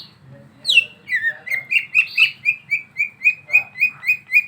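Cucak ijo (green leafbird) calling: a loud downward-sweeping whistle at the start and another just under a second in, then a fast, even run of short chirps, about five a second.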